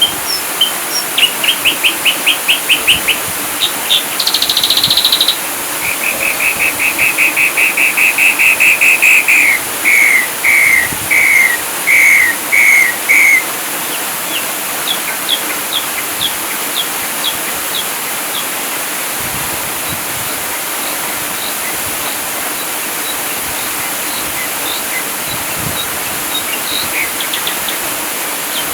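Ashy drongo singing: a fast trill of repeated notes, a short buzzy high phrase, then a long rapid trill that breaks into about six separate slurred notes, followed by sparse high chips. A steady hiss lies under it throughout.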